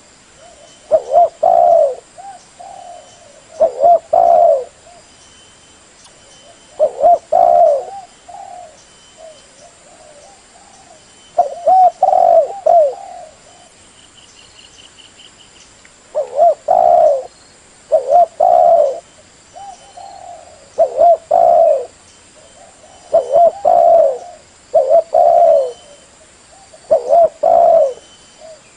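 Spotted dove cooing over and over: short, loud coo phrases every second or two, with a few longer pauses. This is the call of a decoy dove used to lure wild doves.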